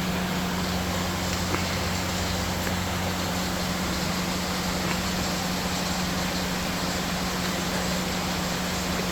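A steady low machine hum over an even hiss, unchanging in level.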